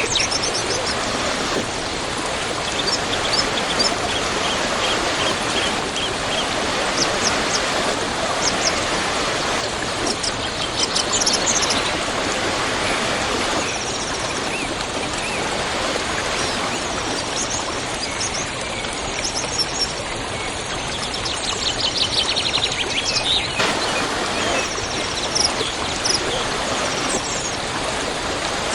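Waterfall rushing steadily, with small birds chirping and trilling over the water. The water's tone shifts abruptly a few times.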